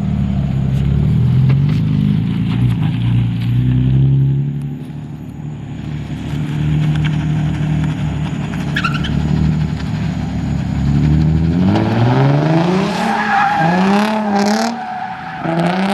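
A car engine running at low revs with pitch shifts, then from about twelve seconds in revving up in quick repeated rising sweeps while the tyres squeal and skid in a street drift.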